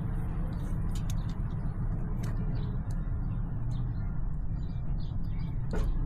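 Steady low rumble, with a few light clicks and rustles from black electrical tape being handled and wrapped around a phone charger cable; one sharper click near the end.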